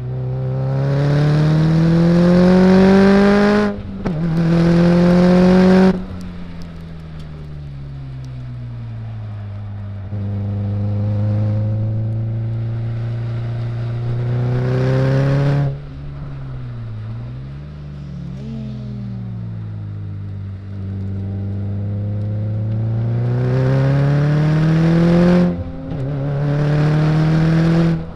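Car engine under hard acceleration on a track, heard onboard: revs climb, drop abruptly at an upshift about four seconds in, climb again, then fall away as the driver lifts. It pulls up through the revs again, dips and rises briefly in the middle, then accelerates hard with another upshift near the end before lifting off.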